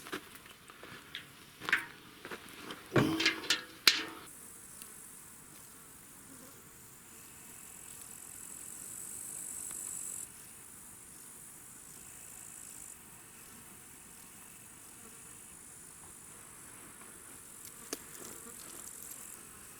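Insects buzzing in a steady high-pitched drone, after a handful of sharp knocks and clatters in the first four seconds.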